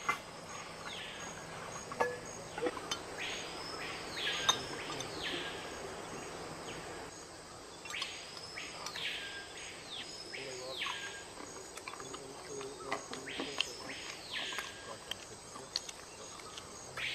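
A bird calling with loud whistled notes that each sweep up and then back down, repeated in groups of two or three, over steady background noise. A few sharp clicks sound in the first seconds.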